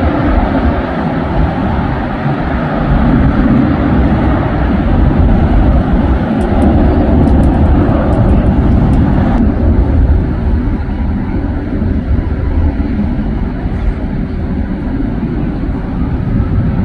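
Airliner jet engine noise, a loud steady rumble that turns somewhat duller a little past halfway.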